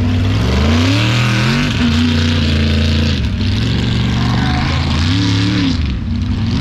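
Mega truck engines revving hard during a race, their pitch climbing and dropping several times as the trucks accelerate and back off, under a steady rushing noise.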